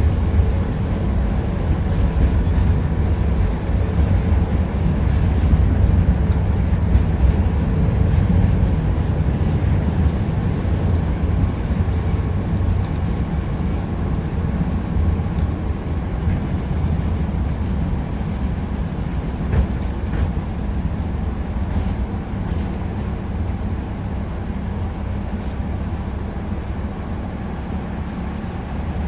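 Tram in motion heard from inside the passenger car: a steady low rumble of wheels on rails and running gear, with scattered short clicks, growing a little quieter toward the end.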